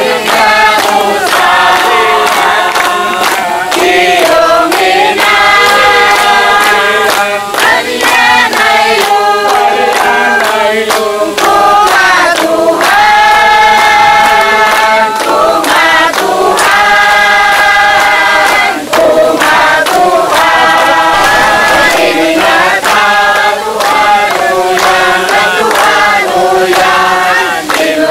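A group of people singing a Christian hymn together, many voices holding long notes.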